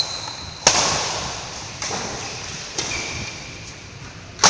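Billiard balls clacking: four sharp clacks spread through the shot, the first and last the loudest, each trailing off in the hall's echo.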